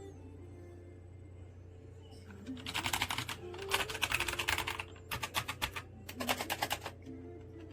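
ABKO AN04F low-noise, non-clicky mechanical keyboard with PBT keycaps being typed on rapidly, in three bursts of fast keystrokes starting about two and a half seconds in. Soft background music plays underneath.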